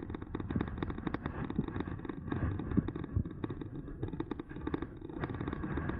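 Rumble and rattling of an electric bike on the move, with many small knocks throughout and wind on the microphone.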